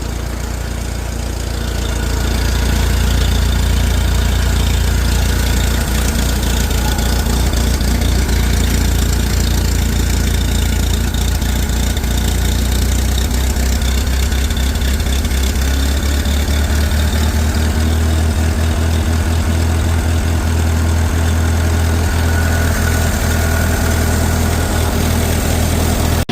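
International 15C's engine running after an ether-assisted cold start. It picks up and grows louder about two seconds in, and about halfway through its deep note rises a little and then holds steady.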